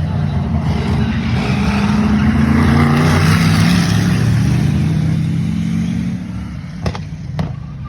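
Racing stock car engines running hard, swelling to their loudest about halfway through as the cars pass, then fading. Two sharp clicks near the end.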